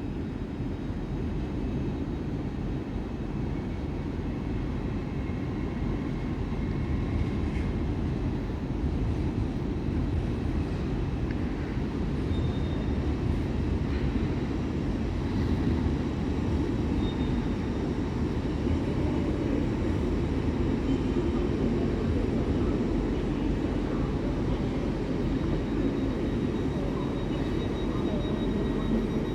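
Passenger train at a station platform: a steady low rumble with faint high-pitched tones above it.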